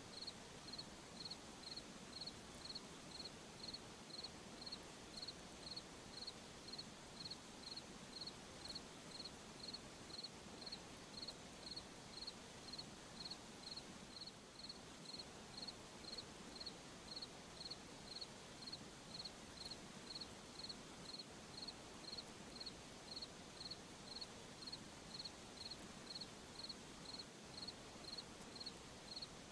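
Crickets chirping at night: one cricket gives short, high-pitched chirps at an even pace, about three every two seconds, over a faint steady hiss of more distant insects.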